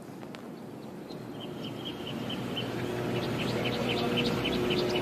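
Small birds chirping: short, quick repeated chirps starting about a second and a half in, over a steady outdoor background noise that slowly grows louder.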